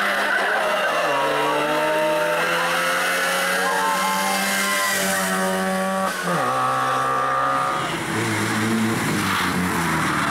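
Trabant rally car engines revving hard at speed, the pitch climbing and dropping. About six seconds in the engine note changes abruptly to another car's.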